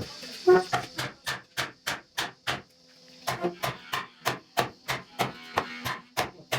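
Repeated hammer blows on wood, about three a second, with a short pause midway, as the wooden joints of a charpai frame are knocked together.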